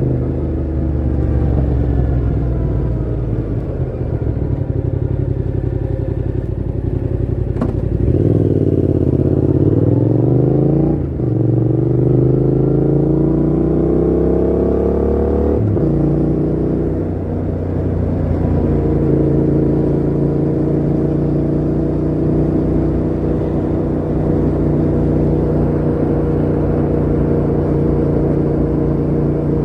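Yamaha MT-07's parallel-twin engine through a Mivv GP Pro full exhaust with the dB killer fitted, running under way. About eight seconds in it revs up hard, with two sudden drops in pitch at gear changes, then settles to a steady cruise.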